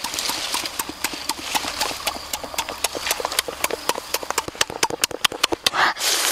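Close-up eating sounds: a person chewing grilled chicken wing and papaya salad with rapid wet lip-smacking clicks, with a louder burst of noise near the end.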